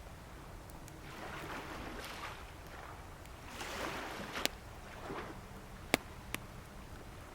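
Waves washing ashore in two slow swells, with a wood bonfire giving a few sharp pops; the loudest pop comes about six seconds in.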